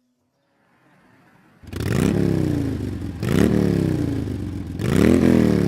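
Motorbike engine revved three times, each rev shooting up in pitch and then slowly falling away.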